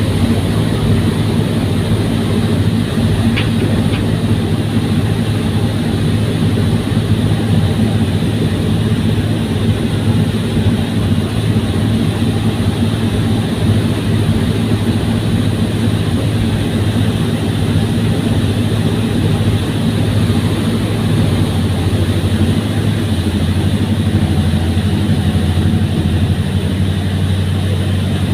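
Fast ferry's engines running with a steady, even drone.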